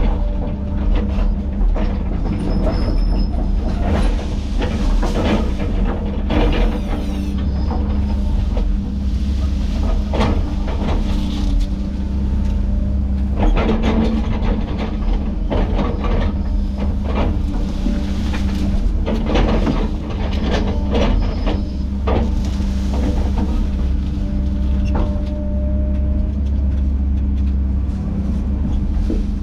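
Diesel engine of a tracked land-clearing machine running steadily under load, with irregular sharp cracks and clanks over the drone throughout.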